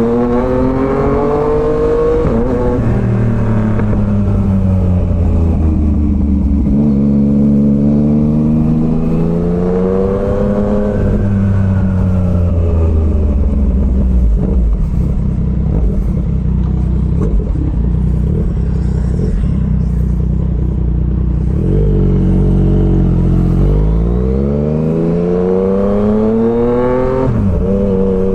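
Yamaha MT-09 inline three-cylinder motorcycle engine under way, its pitch climbing as it accelerates and then dropping sharply at each gear change, several times over, with steadier stretches of cruising in between.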